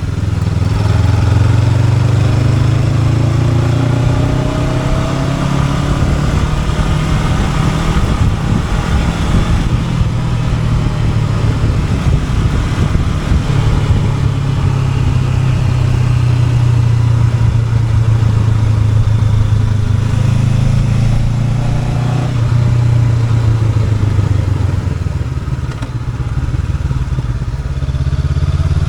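Honda NX500's parallel-twin engine running on the move, its pitch rising as the bike accelerates in the first few seconds, then holding steady; it eases off briefly near the end before picking up again.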